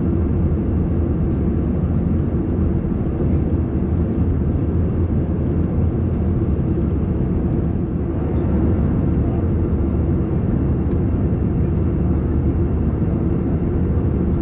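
Steady cabin noise inside an Airbus A321 airliner in flight: a constant low rumble of engines and airflow with a fainter hiss above it.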